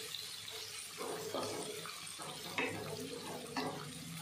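Chopped onions frying in hot oil with whole spices in a nonstick wok, a steady sizzle, with the spatula scraping and knocking against the pan a few times.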